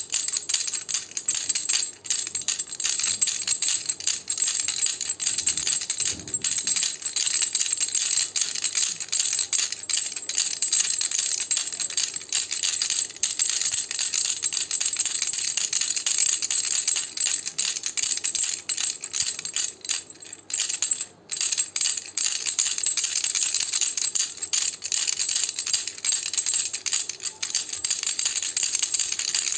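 Baby rattle shaken continuously: a dense, fast clatter of small beads, bright and jingling, with a brief break about two-thirds of the way through.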